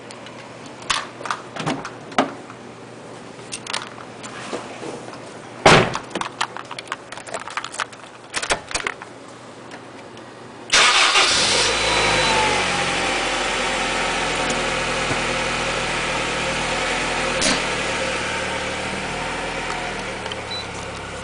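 A series of sharp clicks, then about ten seconds in a manual-transmission Honda Accord's engine starts by remote starter and settles into a steady idle, its level easing slowly.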